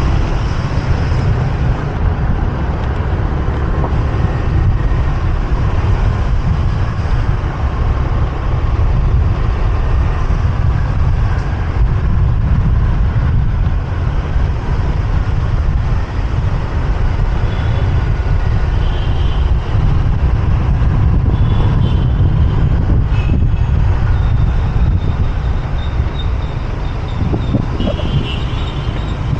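Motorbike riding through city traffic: a steady, loud low rumble of wind and engine on the microphone, with the noise of surrounding traffic.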